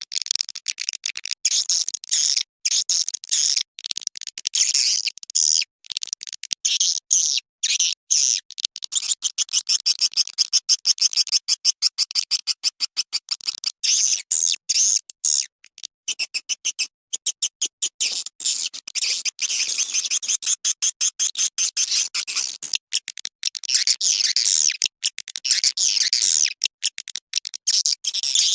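Swiftlet lure recording: dense, high-pitched twittering chirps repeating rapidly in short chopped pulses. It is a 'suara panggil' calling sound, played to draw swiftlets into a nesting house.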